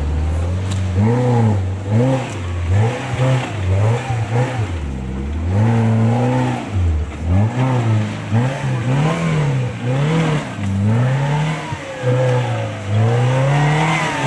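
Modified Maruti Gypsy off-road vehicle's engine revving hard over and over, its pitch climbing and dropping about once a second as the throttle is worked to drag the vehicle through deep mud and ruts.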